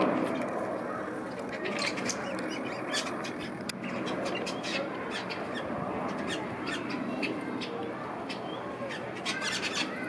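Aviary birds calling, with many short sharp chips and squawks over a steady hubbub.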